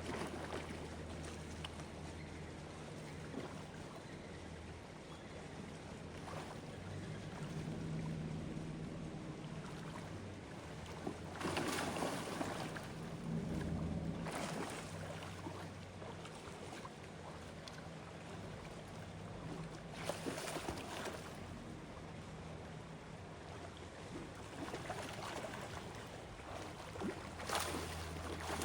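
Water sounds over a steady low motor hum, with a few louder bursts of splashing spread through the stretch.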